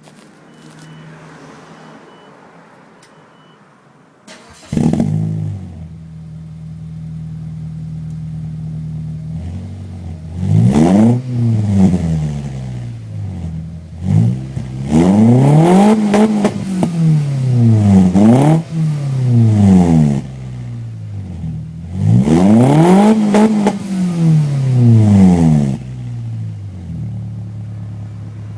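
Mazda2 engine with a full aftermarket exhaust and no catalytic converter, starting up about five seconds in and settling to idle. It is then revved hard in three spells of repeated rising and falling blips, dropping back to a steady idle near the end.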